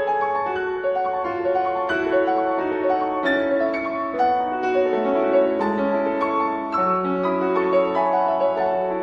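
Background piano music: a steady run of notes, sounding like a calm classical-style piece.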